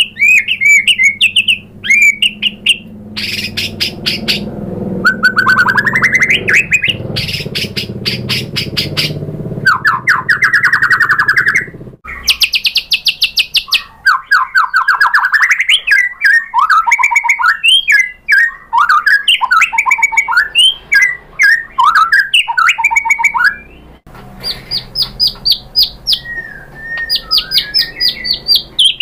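White-rumped shama singing a long, varied song of fast trills, rapidly repeated high notes and quick rising whistles. The song breaks off and the background changes abruptly three times.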